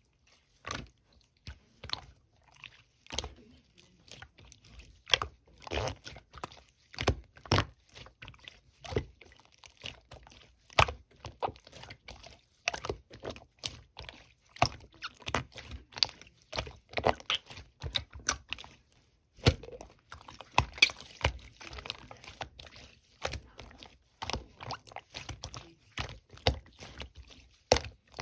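Slime being pressed and squished by hand, giving irregular crisp pops and clicks as air pockets burst, a few each second.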